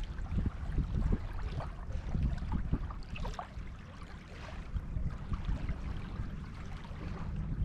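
Sea waves washing on a beach under a low, gusting rumble of wind on the microphone, easing briefly about halfway through.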